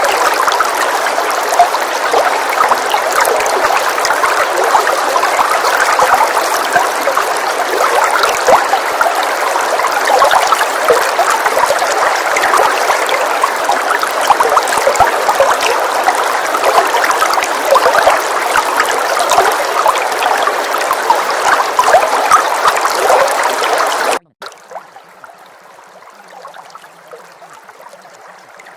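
Steady rain, a dense patter of many small drops, that cuts off suddenly about 24 seconds in, leaving only a much fainter hiss.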